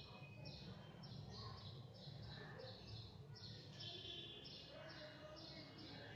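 Birds chirping faintly in the background: short high chirps repeating two or three times a second, over a low steady background noise.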